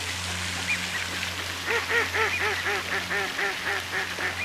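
Ducks quacking: one call about a second in, then a rapid run of about a dozen quacks, roughly four a second, loudest at first and fading toward the end.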